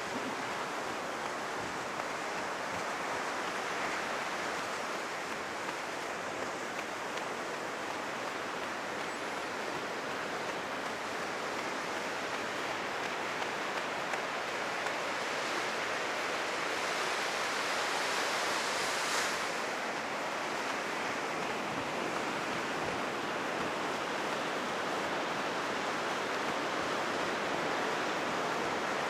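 Heavy surf breaking on a sandy beach, the waves high after a typhoon: a steady rushing wash that swells a little louder about two-thirds through.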